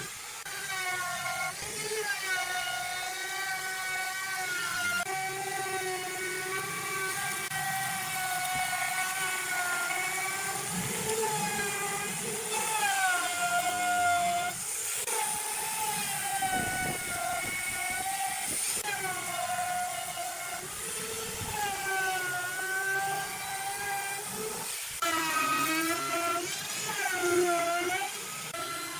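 Electric power tool motor whining on wood, its pitch dipping and recovering every few seconds as it is loaded and eased off.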